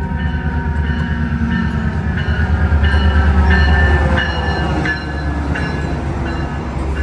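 A train passing close by: a heavy low rumble with scattered wheel clicks, swelling to its loudest about three to four seconds in, then easing off.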